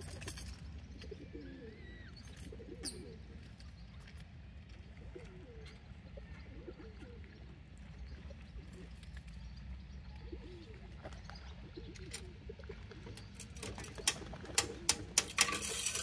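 Soft, low-pitched bird calls repeating every second or two, with a faint higher chirp now and then. Near the end come about five sharp clicks in quick succession.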